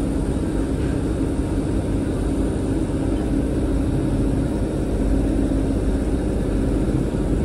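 Diesel passenger train running, heard from inside the carriage: a steady engine hum over the rumble of wheels on the rails.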